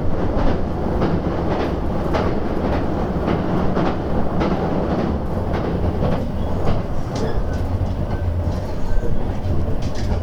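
Running noise inside a JR West 287 series electric train: a steady low rumble with irregular clacks of the wheels over the rails, and a few faint high squeals in the latter half.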